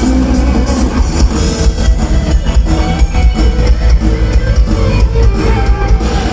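Live band playing a loud instrumental break in a romantic song, with a steady drum beat and guitar.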